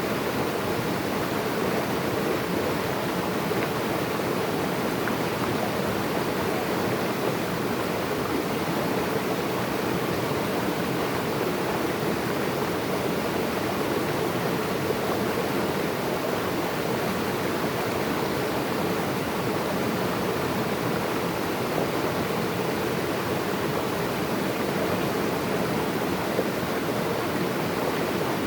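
Flowing water rushing steadily, an even, unbroken noise with no separate splashes or drips.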